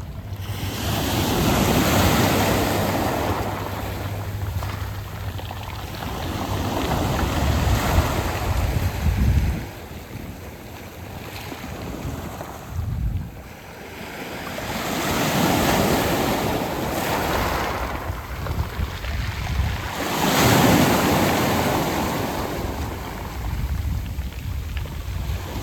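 Waves breaking and washing up a round-pebble beach, the surf swelling and ebbing in four big surges, with wind rumbling on the microphone.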